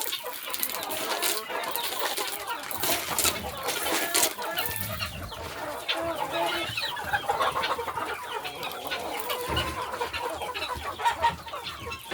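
A flock of domestic chickens clucking continuously in short, wavering calls, with scattered light clicks and rustles among them.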